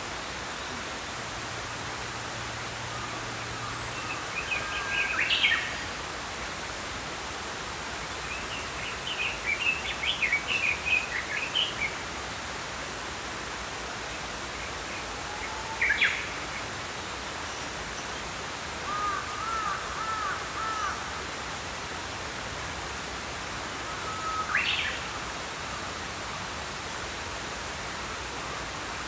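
Small songbirds chirping and calling in short scattered phrases over the steady rush of a flowing stream.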